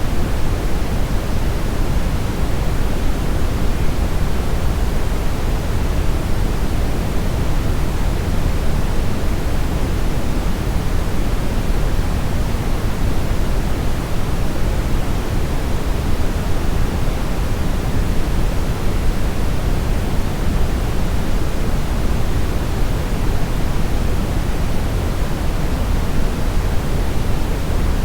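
Steady synthetic brown noise: an even, deep rushing hiss weighted toward the bass, with no change over time.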